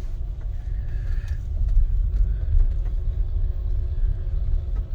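Car engine and road rumble heard from inside the cabin while driving, a steady low drone with a few faint clicks.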